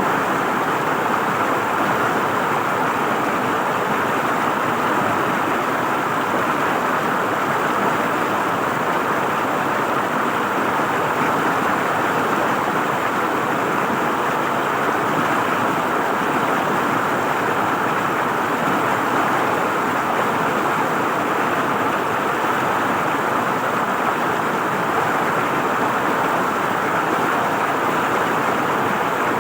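River water flowing and gurgling over rocks, a steady even rush with no breaks.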